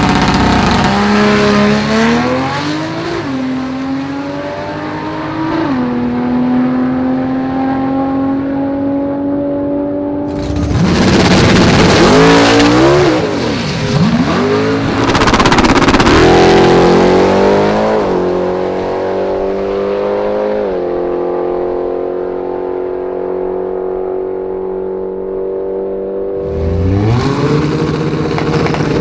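High-performance drag-racing car engines accelerating hard, the pitch climbing and then dropping back with each gear shift. Two louder stretches in the middle bring the engine note swooping up and down.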